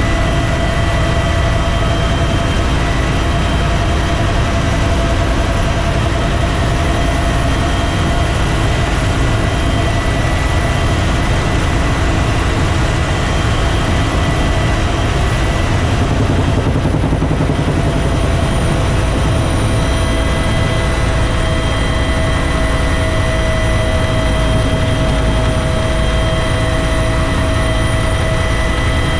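Bell UH-1 Huey helicopter in flight: a steady, loud low rotor beat under the whine of its turbine engine.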